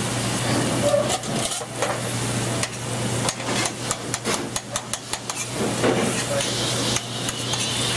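Utensil stirring a simmering sauce in a sauté pan, with a quick run of clacks and scrapes against the pan in the middle, over a steady low hum.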